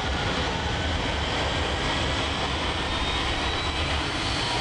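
Westinghouse J34 turbojet engine running steadily: a constant rushing noise with a low rumble and a faint high whine.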